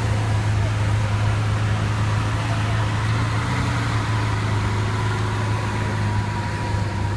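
A motor vehicle's engine running steadily: an even low drone with a faint steady whine above it, with no revving or changes.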